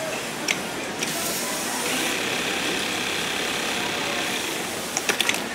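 Industrial single-needle plain sewing machine running steadily while stitching loop tape through a folder attachment, with a few sharp clicks, several of them close together near the end.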